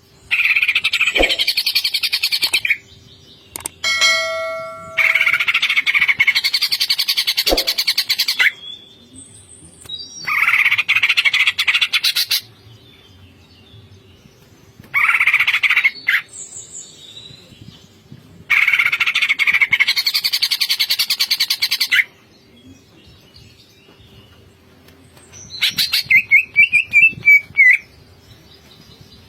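Cucak ijo (green leafbird) singing in its rapid rattling 'ngentrok' style: six bouts of fast repeated notes, each lasting two to three seconds, separated by short pauses. A faint steady hum runs underneath.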